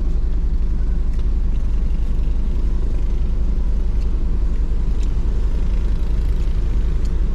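Steady low rumble of a car driving on the road, engine and road noise heard from inside the vehicle.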